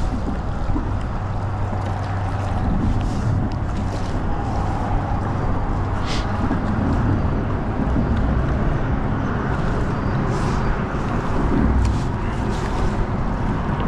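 Wind buffeting the microphone over the wash of choppy waves around a kayak: a steady rushing noise, heaviest in the low end.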